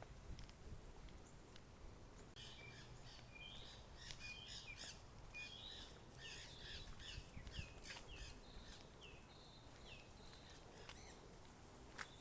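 Faint birdsong: a series of short chirps and quick down-slurred whistled notes, starting about two seconds in and dying away near the end, over quiet outdoor background.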